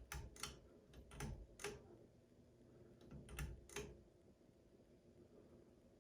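Ceiling fan pull-chain speed switch clicking: six short, sharp clicks in three close pairs over the first four seconds, then near silence.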